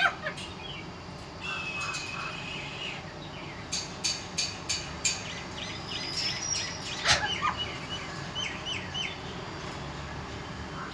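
A parrot chirping and calling in short, high notes. It holds one whistle-like note near the start and gives a single loud, sweeping squawk about seven seconds in, followed by quick chirps.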